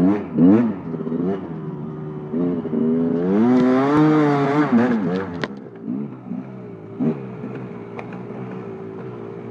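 KTM 250 SX two-stroke dirt bike engine idling hot and blipped by the throttle: a few quick revs, then one longer rev that rises and falls, then another blip and back to idle. Under the idle there is a knocking rattle that comes only when the engine is hot, which the owner suspects is the power valve.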